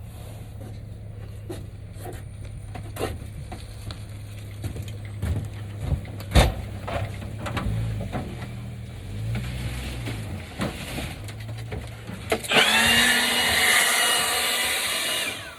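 Pieces of wood knocked and shifted about with scattered clicks. Near the end an electric power saw starts up and runs loudly for about three seconds, cutting wood.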